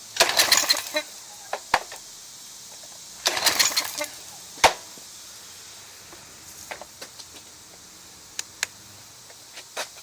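Briggs & Stratton 175cc engine on a pressure washer pull-started twice by its recoil cord, cranking with a fast rasp but not catching, then a few light clicks. Starting fluid has been sprayed into the bare intake to test for a fuel-delivery fault.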